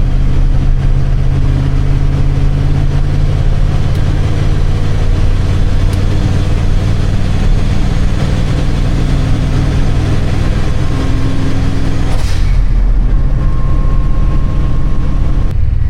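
Steady engine drone and road noise inside the cab of a 1976 Ford F-250 cruising under load while towing a trailer. There is a short whoosh about twelve seconds in, after which the drone shifts.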